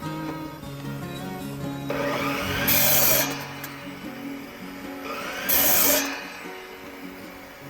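Two long rasping strokes of a saw cutting through wood, about three seconds apart, over background music.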